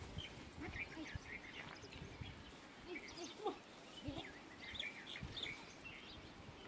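Several birds chirping and twittering in short calls, faint, with a few soft low thumps among them.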